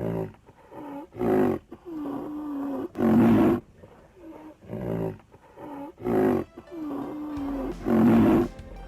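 A big cat roaring four times, with quieter gliding calls between the roars.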